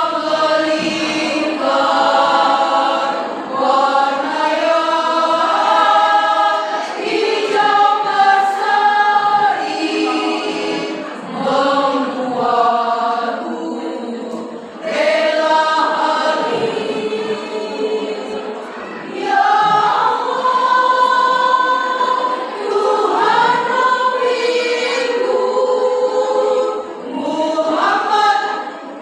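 A choir singing in harmony, in several phrases with short breaks between them.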